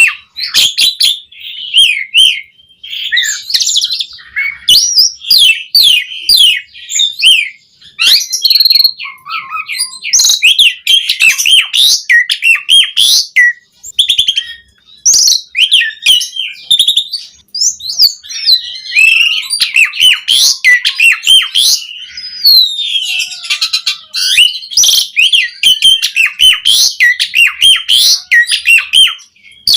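Asian pied starling (jalak suren) in full, vigorous song: a fast, loud, nearly unbroken stream of varied whistles, squeaks and chattering notes, broken by a few short pauses. The song is packed with varied fill phrases (isian).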